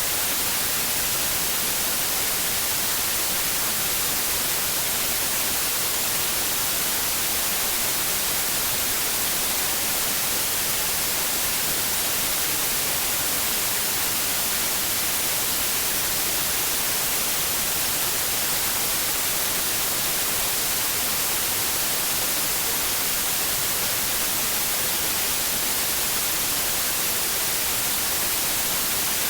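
Steady white noise: an even, unchanging hiss with no events, played as a sleep aid for babies.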